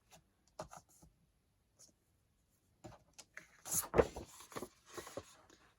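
Sheets of paper being handled and shuffled: a few light ticks at first, then a stretch of rustling with one sharp knock about four seconds in.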